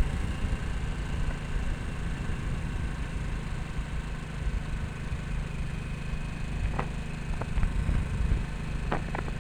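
Harley-Davidson Nightster 975's V-twin engine running steadily in fourth gear at cruising speed, a low even hum under a rumble of wind, with a few short clicks near the end.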